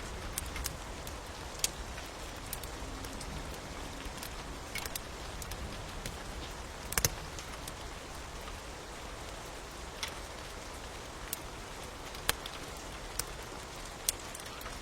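Steady rain hiss with the sharp, irregular pops of a crackling wood fire, one every second or two; the loudest is a quick double pop about halfway through.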